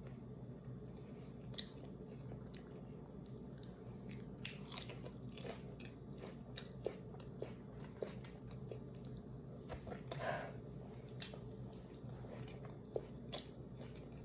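A person chewing and biting into loaded nachos: crisp tortilla chips crunching in irregular, scattered bites, with one louder crunch about two-thirds of the way through.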